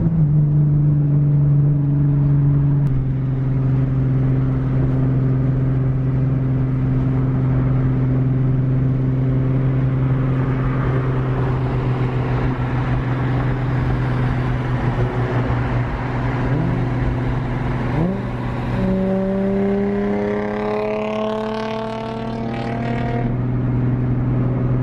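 Nissan 370Z's 3.7-litre V6 through a full Tomei exhaust, cruising with a steady drone; near the end the revs jump and climb for a few seconds under acceleration, then settle again.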